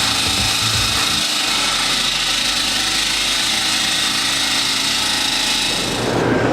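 A power tool runs steadily under load, cutting an opening in an exterior wall, with a constant high grinding hiss. It stops near the end.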